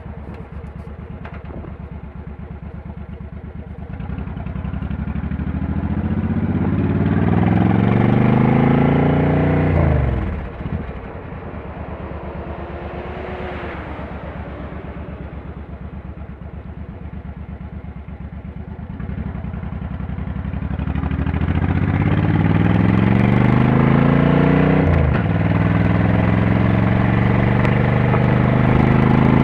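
Motorcycle engine running low, then revving up as it accelerates, the revs dropping sharply about ten seconds in. Later the revs build again, with a brief dip near the end like a gear change before pulling on.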